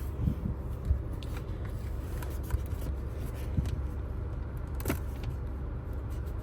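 Small clicks and knocks of things being handled and wiped inside a car, over a steady low rumble.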